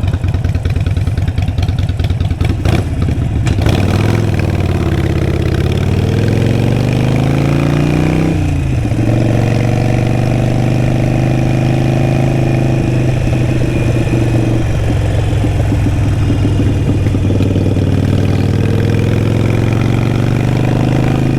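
Harley-Davidson Sportster 883 Iron's air-cooled 883 cc V-twin running through a Vance & Hines exhaust while riding. Its pitch climbs steadily for a few seconds, drops sharply about eight seconds in, then holds steady.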